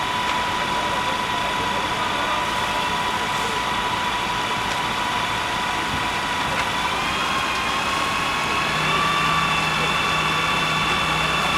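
Fire engine running steadily with a high, even whine. More tones join about seven seconds in, and a low hum joins about nine seconds in as it gets slightly louder.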